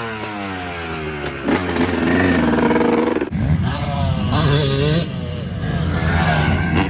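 Dirt bike engine revving hard as it accelerates. Its pitch falls, climbs again, and drops sharply a little after three seconds, like a shift or a roll-off of the throttle, before it revs back up.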